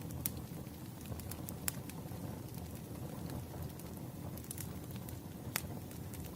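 Firewood burning with a steady low rumble and scattered sharp crackles and pops, the loudest pops shortly after the start, under two seconds in, and near the end.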